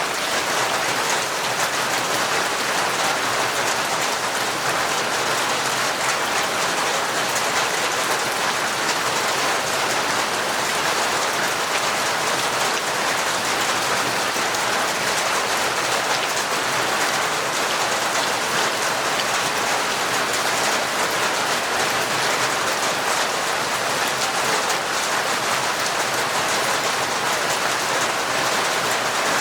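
Heavy, torrential rain falling steadily: an even, unbroken hiss of countless drops with no distinct hits or pauses.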